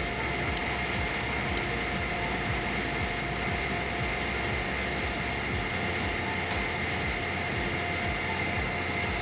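Excavator working a stump removal bucket, its engine and hydraulics running steadily with a constant high whine over the rumble.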